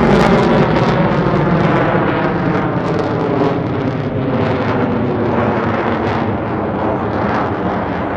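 F-16 fighter jet's engine noise as it flies past, loudest at the start and slowly fading as it moves away.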